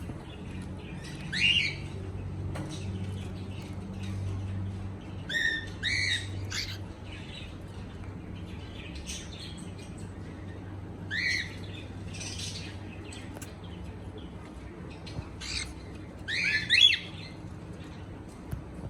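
Pet cockatiel chirping: short, sharp calls that sweep up and down in pitch. Loud calls come in bursts a few seconds apart, about four times, the loudest near the end, with softer chirps between them and a faint steady low hum underneath.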